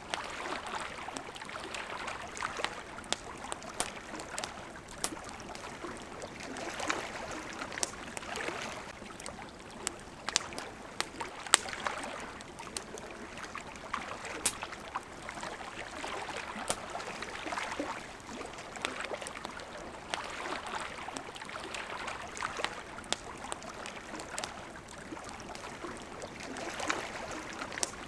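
Campfire crackling with frequent sharp pops and snaps, over water lapping in gentle swells every two to three seconds.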